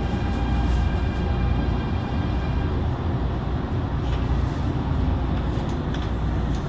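MTR Tung Chung line CAF electric train running, heard from inside the car: a steady low rumble with a faint whine of fixed tones that dies away about a third of the way in.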